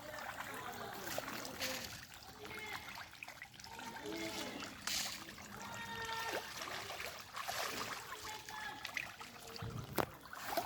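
Water trickling and lapping in a fish pond, with faint distant voices, and a single sharp click about ten seconds in.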